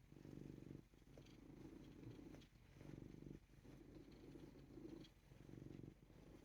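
Ragdoll cat purring softly, in stretches broken by short pauses about every second or so.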